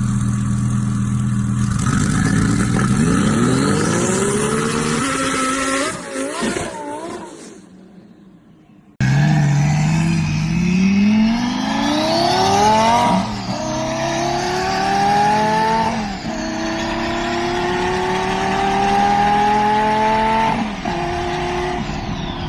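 High-performance sports car engines accelerating hard. The first pulls away and fades out; after a sudden cut, another pulls through the gears, its pitch climbing and dropping back at each of three upshifts.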